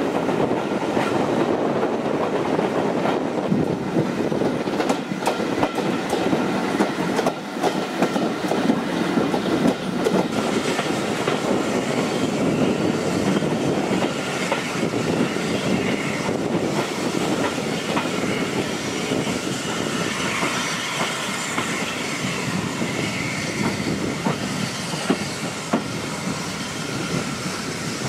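Steam-hauled railway carriage running on the rails, a steady rumble with wheels clicking and rattling over the track. A thin high wheel squeal creeps in during the second half as the train runs in alongside a station platform.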